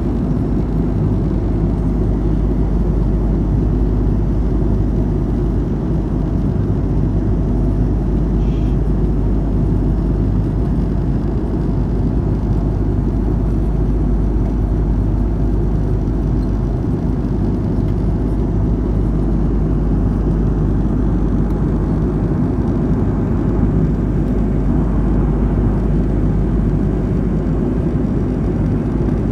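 Steady, loud rumble of an Airbus A330-200's engines and airflow heard inside the passenger cabin in flight.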